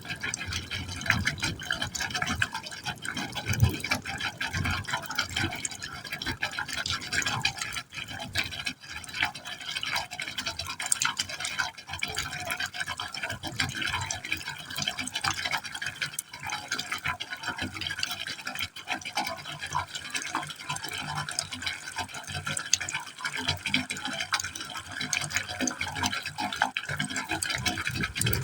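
Water falling into a pipe hole: a continuous, irregular splashing and gurgling that flickers quickly without a steady rhythm.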